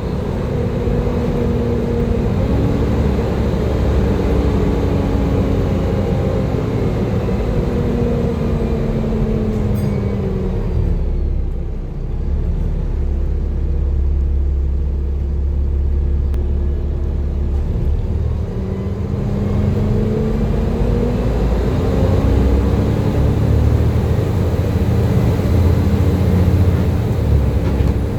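Volvo B7TL bus's 7-litre six-cylinder diesel engine slowing to a stop, its pitch falling. It idles with a low rumble for several seconds, then pulls away with the pitch climbing.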